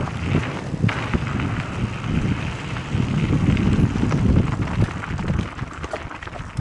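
Mountain bike rolling over a rough dirt trail: steady wind buffeting on the microphone with low tyre rumble and scattered small knocks and rattles.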